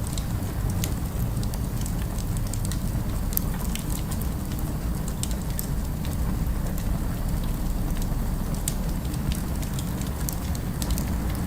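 Fire crackling, with frequent irregular small pops and snaps over a steady low rumble of city ambience.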